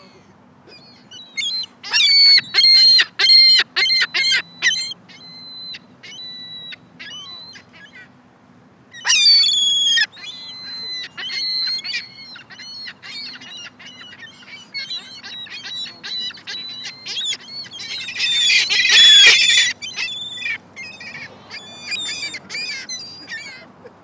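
Birds calling in bursts of short, sharp, repeated calls, with many overlapping near the end, loudest about nineteen seconds in.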